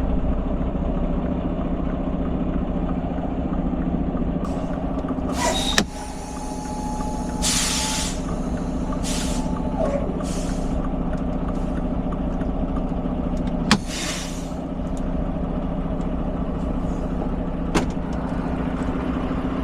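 Mack semi truck's diesel engine running steadily. Its air brakes hiss loudly several times, beginning about six seconds in and ending around fourteen seconds, as the truck is brought to a stop and parked. A sharp click precedes the first and longest hiss, and a steady tone sounds for about four seconds alongside it.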